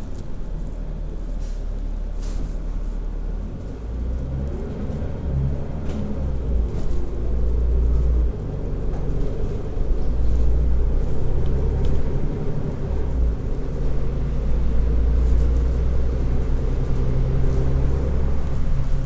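City transit bus driving, heard from inside: a deep engine and road rumble with a faint whine that rises and falls in pitch as it accelerates, growing louder about halfway through.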